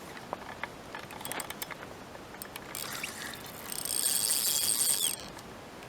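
Fishing reel ratcheting while a hooked carp is played: scattered clicks at first, then from about three seconds in a louder, steady high-pitched whirring that lasts about two seconds and stops suddenly.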